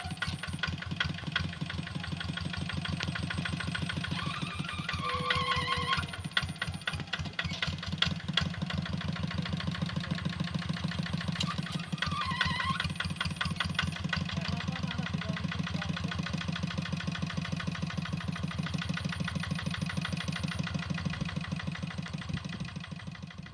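Engine of a walk-behind hand tractor plowing a rice field, running steadily with a fast, even chugging beat. A couple of short wavering calls sound over it about five and twelve seconds in.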